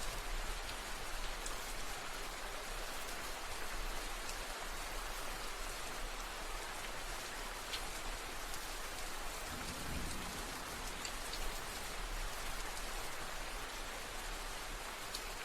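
Steady rain falling on a surface: an even hiss with scattered drop ticks, and a brief low rumble about ten seconds in.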